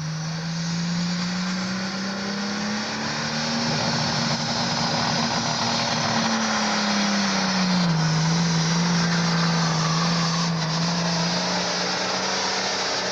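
International 3288 super farm pulling tractor's diesel engine revving hard. Its pitch climbs over the first few seconds, holds high, then drops back about two-thirds of the way through and runs steady.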